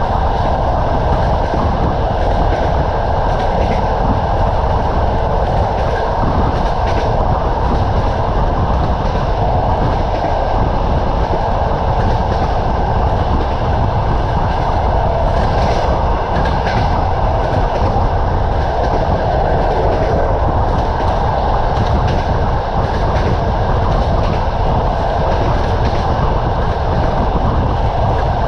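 Train wheels running steadily on the rails: a continuous rumble, with a few sharper clicks now and then.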